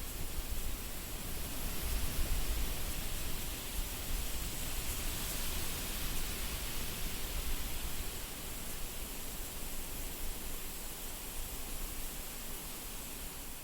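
Wind blowing steadily, a rushing hiss with a low rumble of wind buffeting the microphone, gusting a little stronger about two seconds in.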